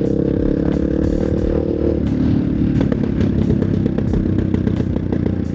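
Single-cylinder engine of a 1999 BMW F650 Funduro motorcycle running while riding: a steady note that changes abruptly about two seconds in, after which the sound turns rougher and more uneven.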